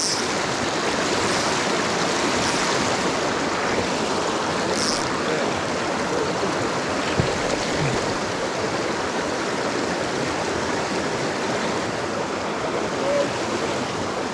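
Mountain stream water rushing and splashing over rocks, a steady, full, even roar of moving water.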